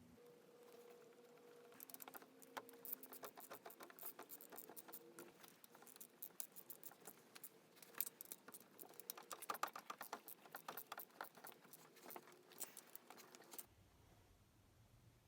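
Rapid, irregular light clicking and tapping, like small hard objects being handled. It starts about two seconds in and cuts off sharply near the end.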